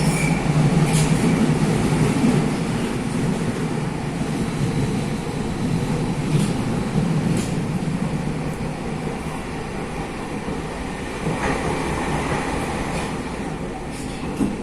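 Athens metro Line 1 electric train running on the track: a steady rumble with a few sharp clicks of the wheels over rail joints and a faint wheel squeal near the start.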